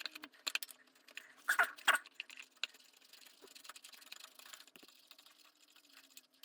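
Quick light clicks and rattles of hand tools and small parts being handled, busiest in the first three seconds, with two louder scrapes about one and a half to two seconds in, then only faint occasional ticks.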